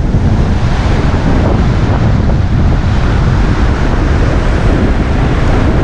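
Strong wind buffeting the microphone, a dense steady rumble, with heavy surf behind it.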